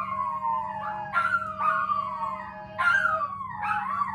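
A series of howling cries, each one starting high and sliding down in pitch, about five in a row.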